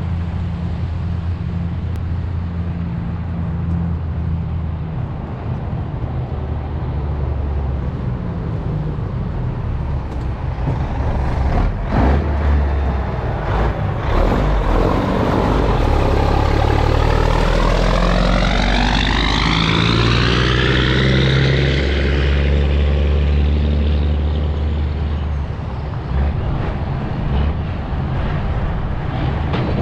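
A motor vehicle overtaking close by over steady road and wind noise. It grows loudest a little past halfway, with its sound sweeping up then down in pitch as it goes by, then fades.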